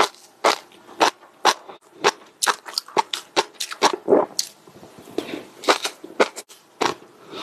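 Close-miked ASMR chewing: a steady run of sharp, crisp mouth and food crunches about twice a second, with a softer, wetter smack or two near the middle.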